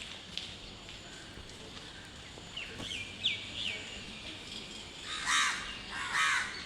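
A crow cawing twice near the end, each caw harsh and about half a second long. Before that, a bird gives a quick run of about four short chirps.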